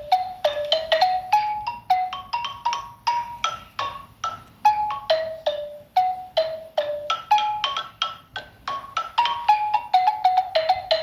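Xylophone played one note at a time in a simple wandering melody, about three struck notes a second, each ringing briefly and dying away.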